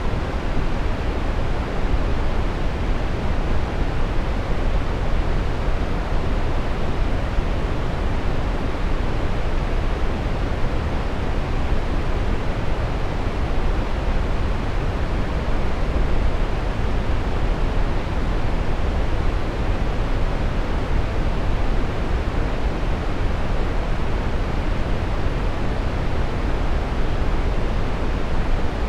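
Steady brown noise: an even, deep rushing hiss, strongest in the bass and fading toward the treble, without any change or events.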